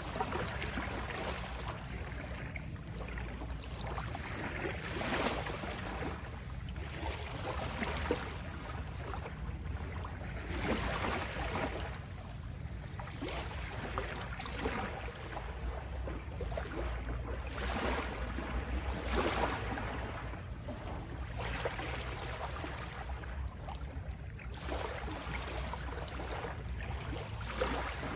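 Small sea waves lapping and washing at the shore, one soft surge of wash every second or two over a constant low rumble.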